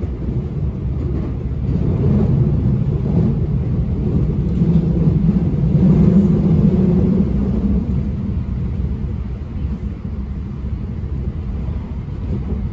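Electric commuter train running, heard from inside the car: a steady low rumble of wheels on rail that swells about halfway through and eases off a little near the end as the train draws into a station.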